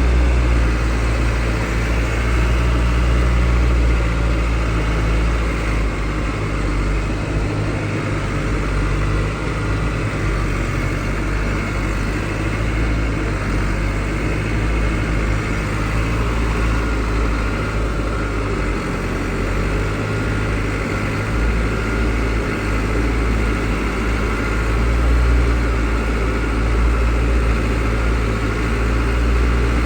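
Truck engine running steadily during a ride, a low even drone with no marked revving.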